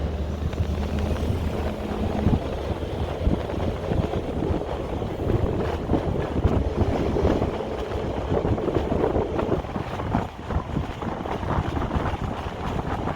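Street ambience with wind rumbling and fluttering on the microphone; a vehicle engine's low hum fades out about two seconds in.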